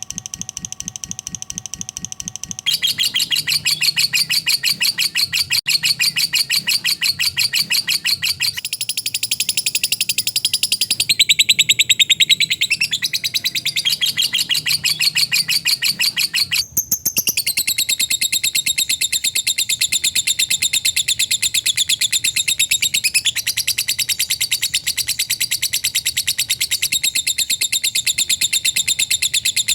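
Lovebird 'ngekek' chattering song: a long unbroken run of rapid, high-pitched chirps repeated in a fast, tight rhythm. The pattern shifts a few times, with a brief break about 17 seconds in.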